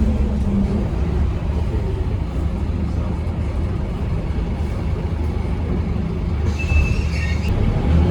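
Scania K230UB bus's 8.9-litre Scania DC9 diesel engine running with a steady low rumble. A brief high-pitched tone cuts in for about a second near the end.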